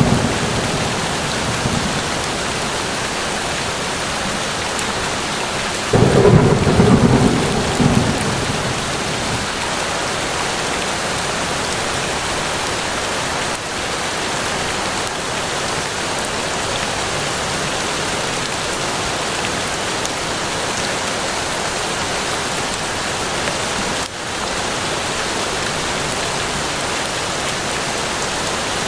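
Steady rain falling. A rumble of thunder starts suddenly about six seconds in and dies away over about two seconds, and the tail of an earlier rumble fades out at the start.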